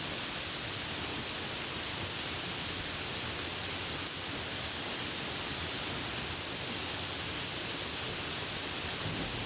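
Steady heavy rain: an even hiss with no single drops standing out.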